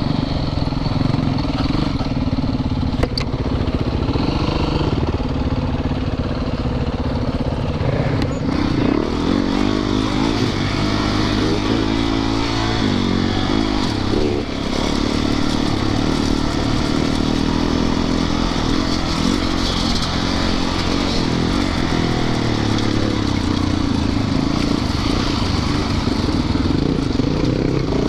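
Yamaha YZ450FX dirt bike's four-stroke single-cylinder engine running under way. It holds fairly steady for the first several seconds, then the revs rise and fall repeatedly as the throttle is worked.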